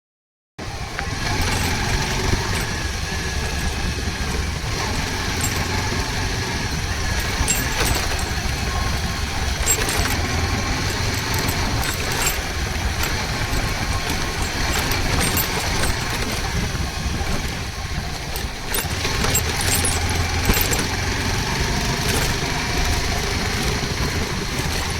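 Motorcycle running steadily on the road, a low engine hum under constant road noise, cutting in after a brief silence at the start.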